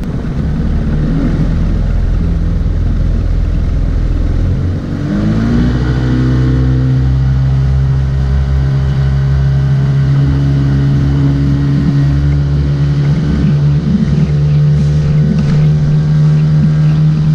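Motorboat engine with a low rumble that throttles up about five seconds in, its pitch rising, then runs steadily at speed.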